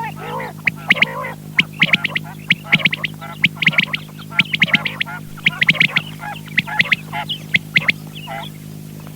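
Quail calling: many short, sharp, high notes in quick runs, over a steady electrical hum.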